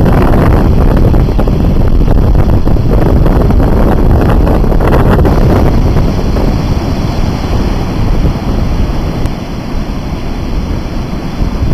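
Strong wind buffeting the microphone over the roar of breaking surf, loud and even. It eases somewhat about halfway through.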